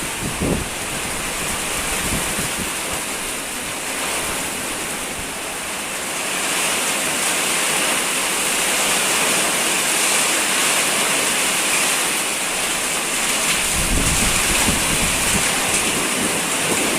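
Heavy rain pouring steadily, growing denser and heavier about six seconds in. A low rumble swells near the end.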